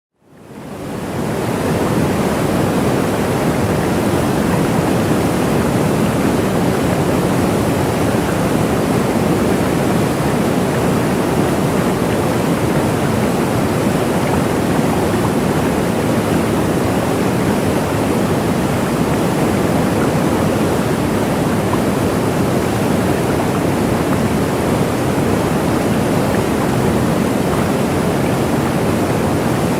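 Waterfall: a steady rush of falling water that fades in over the first second or two.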